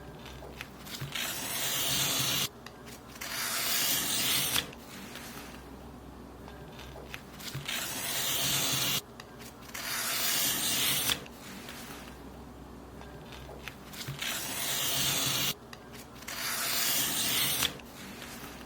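Paper being cut in six long strokes, in three pairs. Each stroke is a dry hiss that grows louder for about a second and a half and then stops abruptly.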